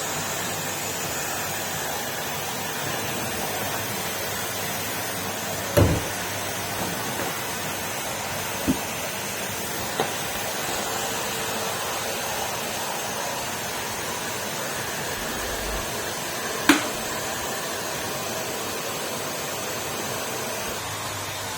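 Numatic Henry canister vacuum cleaner running steadily, with a few short knocks, the loudest about six and seventeen seconds in.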